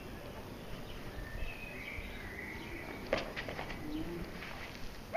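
Faint birdsong with light chirps, and a short run of clicks about three seconds in.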